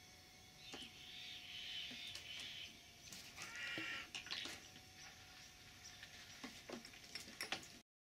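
Bird calls in the aviary, one stretch about a second in and a shorter pitched call around three and a half seconds, with scattered light taps and clicks as a New Caledonian crow works at a wooden vending box. The sound cuts off abruptly just before the end.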